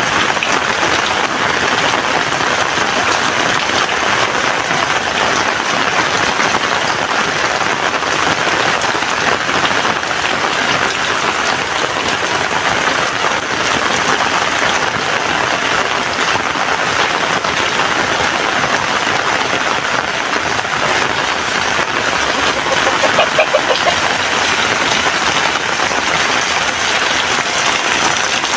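Heavy rain falling steadily: a dense, even hiss of drops hitting surfaces. About two-thirds of the way through, a brief pitched sound rises above it.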